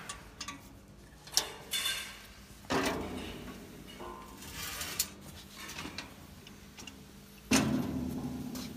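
A fireworks rack being handled: a few light clicks and clacks, then two heavier knocks, about a third of the way in and near the end, each with a short low ring as the rack is moved and set down.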